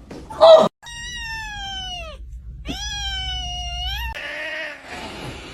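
A cat meowing twice in long, drawn-out calls: the first slides down in pitch, the second rises at its start and again at its end. Both follow a short, loud sound about half a second in.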